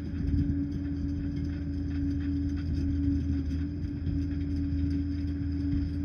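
Liebherr 746 crawler dozer's diesel engine running steadily at a constant pitch, with faint clicking over it.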